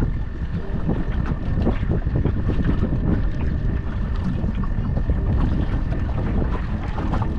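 Wind buffeting the microphone on a boat on the water, a loud rumbling noise full of small crackles, with a thin steady high whine running through it.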